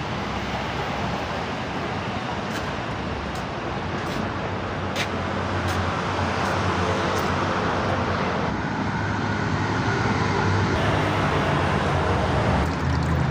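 Steady vehicle and traffic noise: a low engine hum under a wash of road noise, with a few light ticks in the first half, growing a little louder near the end.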